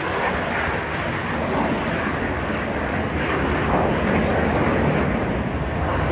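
Red Arrows BAE Hawk T1 jets taking off, their Adour turbofan engines giving a loud, steady jet rush that builds slightly.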